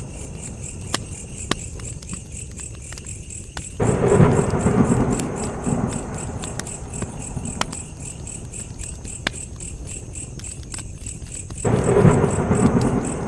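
Campfire crackling with frequent sharp pops, over steady cricket chirping. Twice, about four seconds in and near the end, a sudden low rumbling rush swells up for a couple of seconds and dies away.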